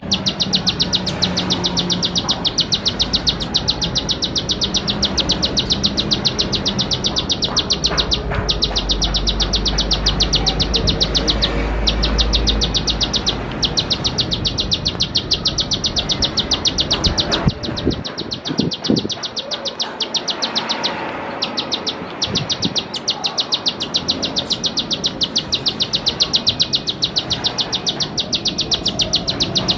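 Ciblek sawah, a field prinia, giving its rapid clicking call ('klik klik'): a fast, even run of high notes, many per second, broken by a few short pauses.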